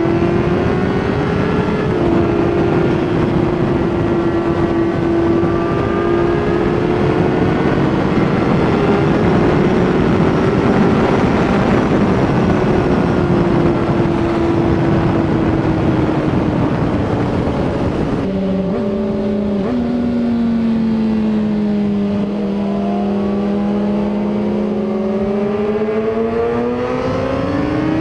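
Honda CBR600RR inline-four engine running at high revs, its pitch rising and falling as it accelerates and slows, over a loud rush of wind on the microphone. The pitch drops sharply about two-thirds of the way through, then climbs again near the end.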